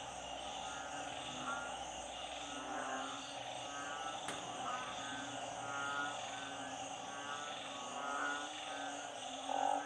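A chorus of frogs calling after heavy rain, with pulsed calls repeating about once a second over a steady high drone.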